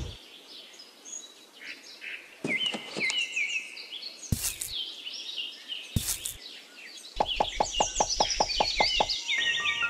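Small birds chirping, with two sharp knocks in the middle and a quick run of taps, about seven a second, near the end.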